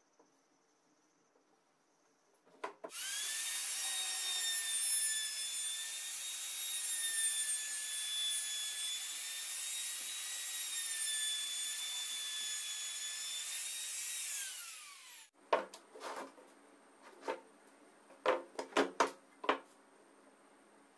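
Circular saw mounted as a table saw, switched on with a click and running at a high whine for about twelve seconds, its pitch dipping slightly as it cuts wood. Near the end it is switched off and winds down with falling pitch, followed by a series of sharp knocks and clicks of wood being handled.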